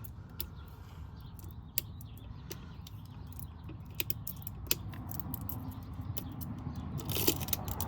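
Hands handling a new spin-on oil filter: scattered light clicks and taps, with a brief rustle near the end, over a low steady hum.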